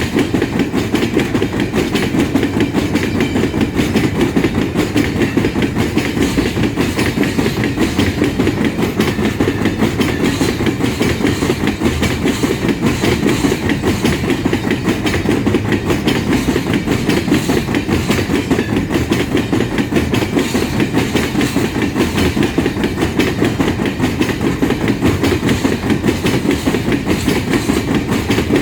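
Empty iron-ore train rolling past: a steady, rapid clatter of steel wheels over the rails with the rattle of the empty ore wagons.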